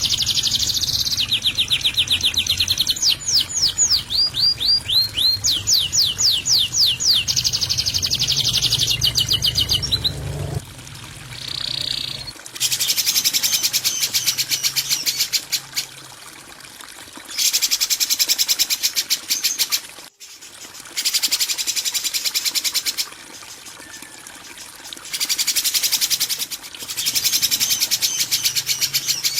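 Recorded songbird 'kasaran' masteran: harsh, rapid chattering trills of fast repeated high notes, continuous at first over a low background hum, which cuts off about ten seconds in. After that the song comes in phrases of two to three seconds with short pauses between.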